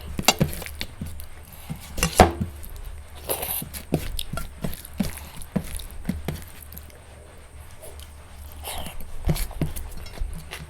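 Close-miked eating sounds: chewing and wet mouth clicks at an irregular pace, with one louder snap about two seconds in.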